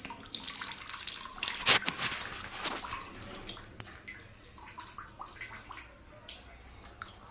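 Water splashing, loudest about a second and a half in, then settling into scattered drips and small clicks.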